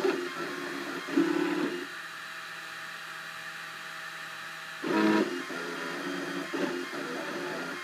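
Cubify 3D printer's stepper motors whining at shifting pitches as the print head moves. A steady tone holds for about three seconds in the middle, with short louder buzzes just before and after it.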